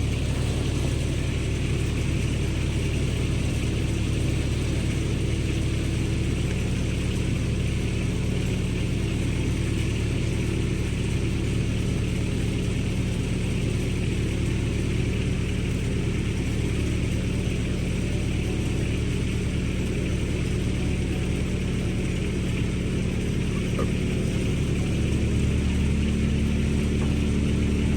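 Engine idling steadily on a cold morning while it warms up.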